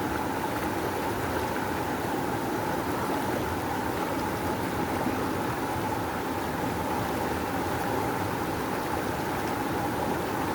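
Rushing river: a steady, strong rush of flowing water, even throughout with no breaks.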